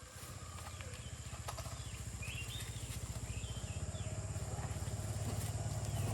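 A small engine runs with a rapid, even putter and grows steadily louder. A few faint bird chirps sound in the middle.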